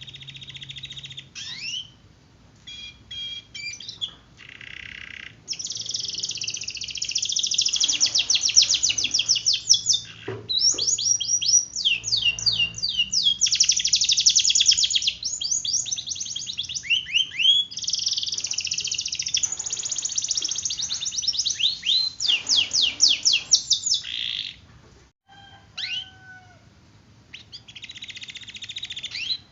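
Domestic canary singing long rolling trills, fast runs of repeated high notes with rising and falling sweeps, in long bursts broken by short pauses.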